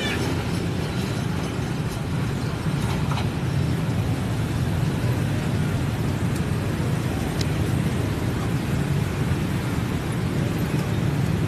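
Diesel multiple-unit passenger train running past and drawing away: a steady low rumble of its engines and wheels on the rails.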